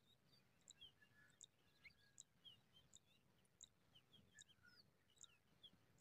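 Faint high-pitched chirping from small birds: a short chirp repeated about every three-quarters of a second, with softer, scattered sweeping chirps in between.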